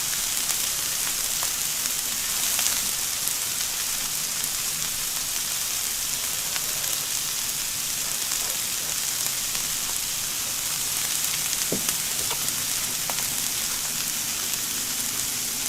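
Shrimp sizzling in oil on an electric tabletop grill: a steady hiss with a few small pops.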